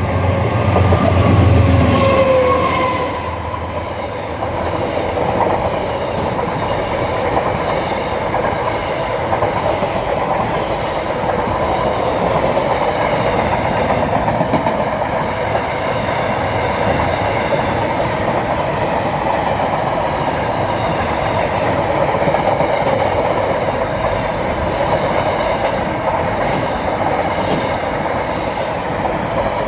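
A train passing on the rails. In the first few seconds a loud low hum with a falling tone goes by, then the wheels of the cars keep up a steady rumble and clickety-clack.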